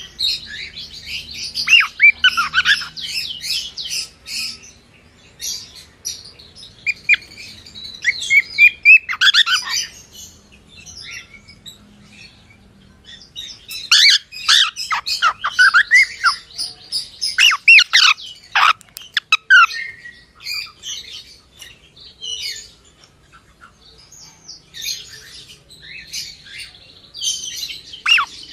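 Cockatiel chirping and whistling in bursts of quick up-and-down calls, with occasional sharper squawk-like notes and short pauses between bouts.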